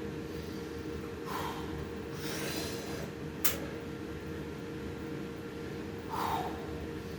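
A man breathing hard from the effort of pull-ups: three forceful breaths, the second a little longer, over a steady low electrical hum, with one sharp click about halfway through.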